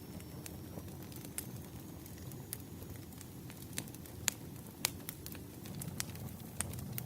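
Wood fire crackling: scattered sharp pops and snaps over a steady low rumble, the loudest pops a little past the middle.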